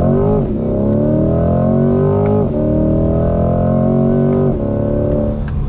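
C8 Corvette's 6.2-litre V8, heard from inside the cabin, accelerating hard through the gears. The pitch rises and drops sharply with quick dual-clutch upshifts about half a second in and again about two and a half seconds in. The pitch falls once more about four and a half seconds in, and the engine note fades near the end as the throttle comes off.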